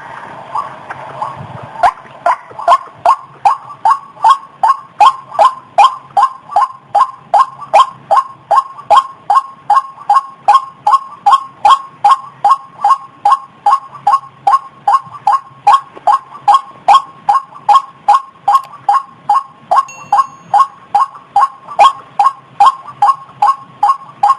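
White-breasted waterhen (ruak-ruak) calling over and over in a fast, even rhythm of about two to three short calls a second.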